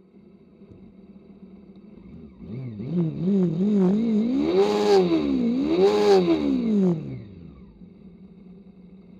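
Motorcycle engine idling, then revved: a few quick throttle blips, then two longer revs that rise and fall back to idle.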